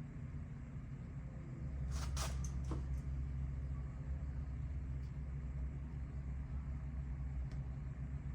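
Steady low rumble of background noise with three or four sharp clicks about two seconds in, as of small metal engine parts or a tool being handled.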